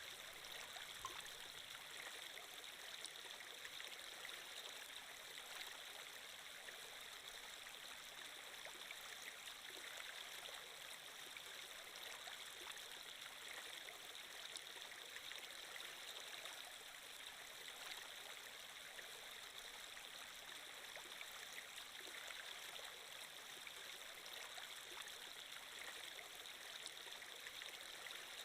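Faint, steady sound of flowing water like a running stream, even throughout with no distinct splashes or drops.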